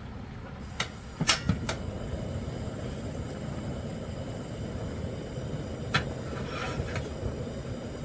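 Steady rain and wind noise on the tent, with a few sharp clicks and knocks about a second in and again near six seconds.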